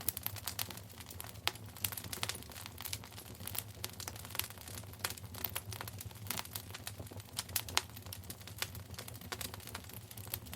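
Wood fire burning in a fireplace, crackling with frequent irregular sharp pops over a low, steady rumble.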